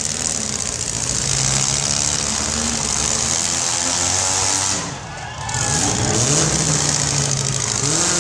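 Demolition derby cars' engines running and revving in the arena, with a short drop in level about five seconds in and the engine pitch climbing again after it.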